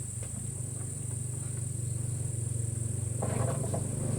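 Insects buzzing in a steady high-pitched drone, over a low motor hum that grows louder, a higher engine tone joining about three seconds in.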